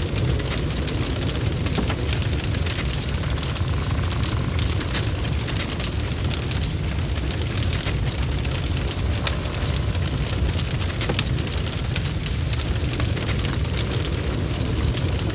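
Bonfire crackling, with many irregular sharp pops and snaps over a steady low rumble from the flames.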